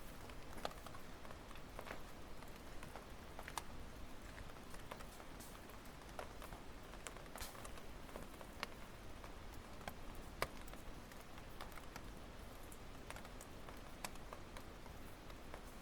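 Wood campfire crackling: irregular sharp pops and snaps of burning firewood over a low, steady background of the burning fire.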